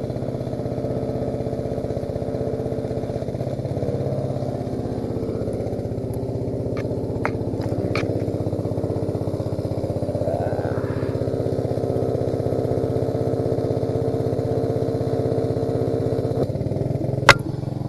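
Engine-driven welding machine running steadily, with a few sharp clicks about seven to eight seconds in and one near the end.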